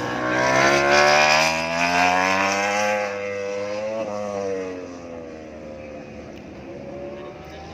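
Superbike race motorcycles passing at high revs: the engine pitch climbs for about three seconds as they accelerate, loudest about a second in, then fades as they pull away.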